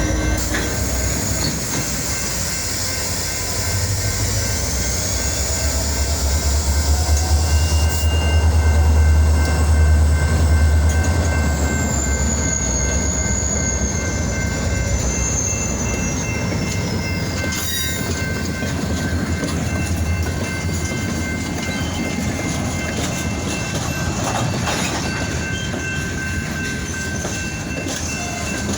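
A freight train with EMD GP-series diesel locomotives rolling past slowly. A deep diesel engine rumble swells to its loudest about a third of the way in, and there is wheel clatter and a high, wavering wheel squeal.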